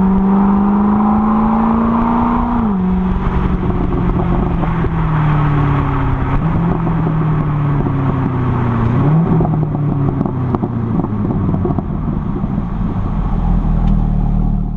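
C6 Corvette's LS2 V8 with a B&B exhaust accelerating hard. The engine note climbs, then drops sharply about two and a half seconds in and again about nine seconds in, as the automatic gearbox shifts up.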